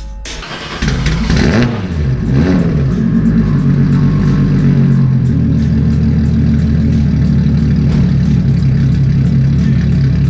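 Turbocharged 2JZ inline-six car engine running through its exhaust. It comes in suddenly about a second in, revs up and back down twice, then settles into a steady idle.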